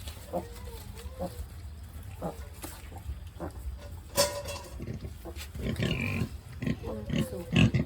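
A sow and her newborn piglets grunting and squeaking: short high calls in the first few seconds, then louder, denser grunting toward the end.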